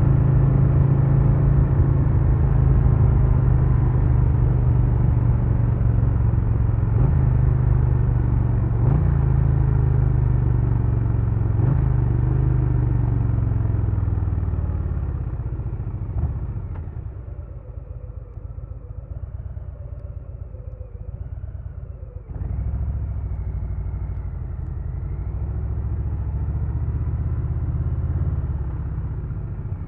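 Harley-Davidson Low Rider S V-twin engine running hard and steady, with a few brief breaks in its note, then dropping to a quieter, lower run a little past halfway and gradually building again near the end.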